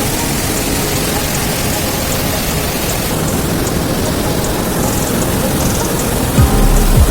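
Steady rushing roar of Duduma waterfall's falling water, an even, dense hiss. Near the end a deep bass thump and rumble cuts in over it.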